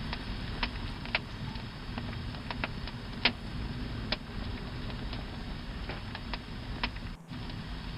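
Campfire burning: a steady low rush with irregular sharp pops and snaps from the burning wood.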